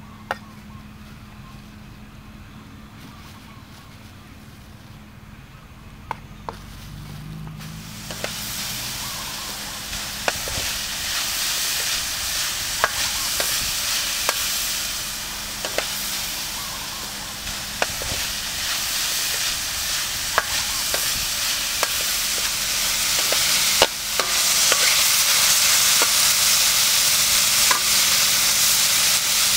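Meat sizzling as it fries in a steel wok on a portable gas stove, with a metal spatula clinking and scraping against the wok as it is stirred. The sizzle starts about eight seconds in and gets louder near the end.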